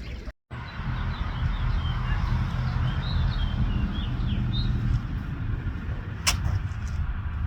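A few short bird chirps over a steady low rumble, with a sharp click near the end.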